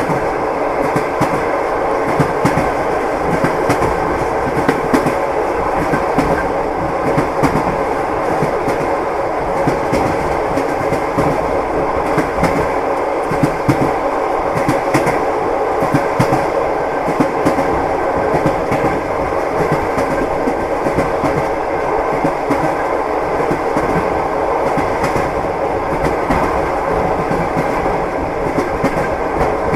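Train wheels clacking over the rail joints under a steady running rumble, a continuous clickety-clack.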